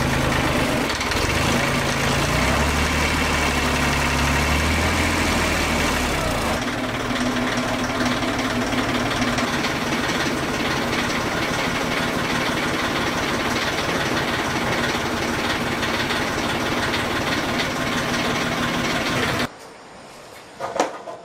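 A heavy truck engine running steadily. Its low note changes about six seconds in, then it cuts off suddenly near the end, followed by a couple of short knocks.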